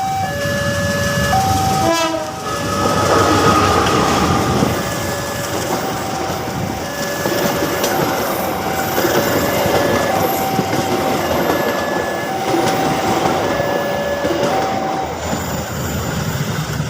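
Level-crossing warning alarm sounding its two alternating tones over and over while a train rumbles past with wheel clatter.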